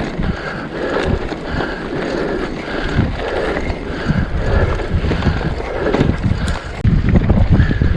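Mountain bike riding over rough moorland single-track: tyre noise and rattling over the ground, with wind buffeting the microphone, growing louder and rumblier about seven seconds in.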